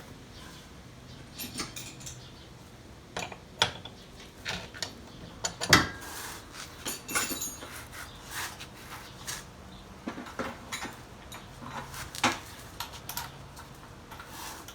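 Hand tools and metal parts clinking and clicking during work on the strut tower: irregular sharp clicks and knocks, the loudest about six seconds in.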